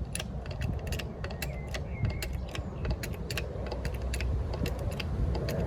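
Makeshift press rig being tightened against a propeller hub: a run of sharp, irregular metal clicks and creaks, several a second, over a low rumble, as the load builds on the H-beam.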